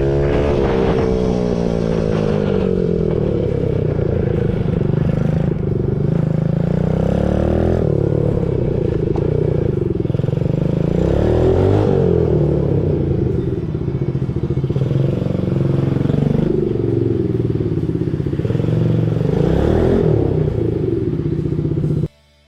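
Trailmaster TM15 dirt bike's 110cc single-cylinder four-stroke engine under way, revving up and easing off several times. It cuts off suddenly near the end.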